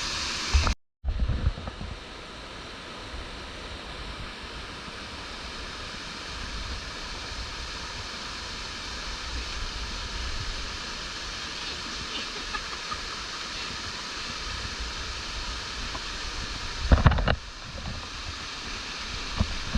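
Steady rush of flowing stream water. Near the end, wind buffets the microphone in short low bursts.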